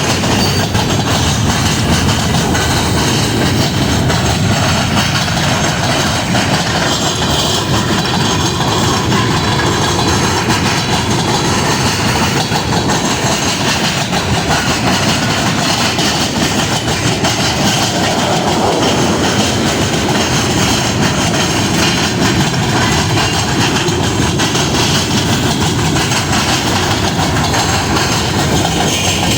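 Train cars rolling past on the rails, a loud, steady noise of wheels on track that keeps up without a break.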